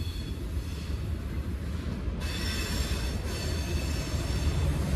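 Freight train cars rolling past in a steady low rumble, with a faint high-pitched whine that drops away about two seconds in.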